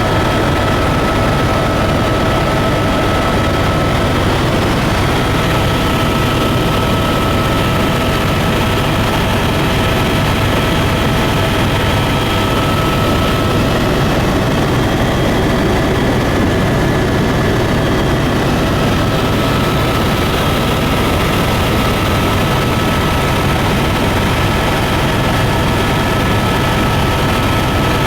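Tour airplane's engines and propellers droning steadily in flight, a loud even noise with a few steady tones running through it.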